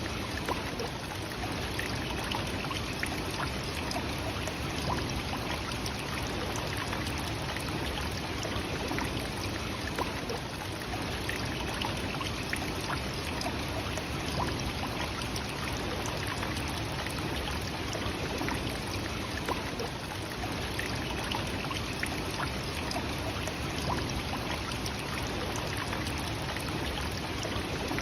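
Nachi Falls, a tall single-drop waterfall, rushing steadily: an even, unbroken noise of falling and splashing water, flecked with small splashes.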